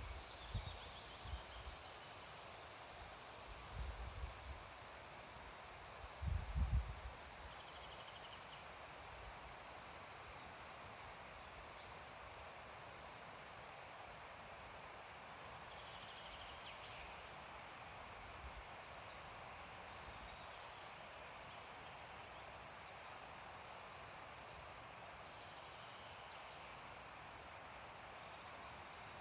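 Windy woodland ambience: a steady hiss of wind in the trees, with a few low gusts buffeting the microphone in the first seven seconds. Faint high chirps repeat about once a second.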